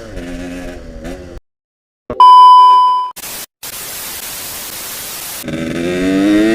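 A Yamaha RX King's two-stroke engine running, cut off into a second of silence. Then comes a loud steady beep lasting about a second, then about two seconds of static hiss. Near the end the engine comes back in, revving up.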